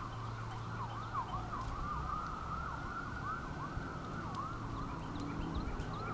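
Sirens yelping, several overlapping, their pitch sweeping rapidly up and down.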